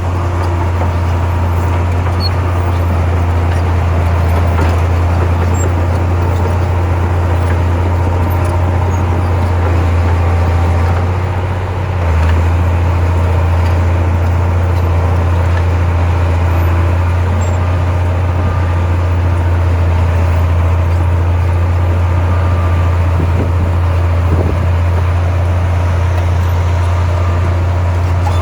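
Heavy diesel engine of earthmoving machinery running steadily under load with a deep, constant drone. It dips briefly about halfway through, then picks up again.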